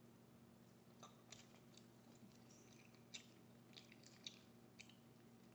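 Faint close-miked chewing: soft, irregular wet mouth clicks and smacks, about a dozen of them scattered across a few seconds.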